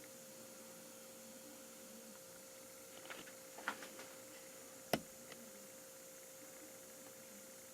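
Faint steady hum, with a few light clicks about three to four seconds in and one sharp click about five seconds in.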